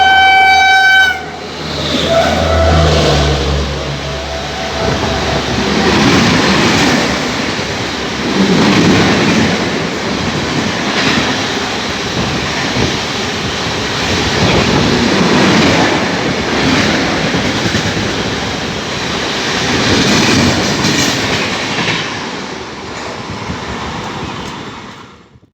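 A locomotive-hauled Indian Railways express of LHB coaches passing at speed: a loud horn blast for about the first second, then the coaches rolling by, with a rumble that swells and eases about every two and a half seconds and fades near the end.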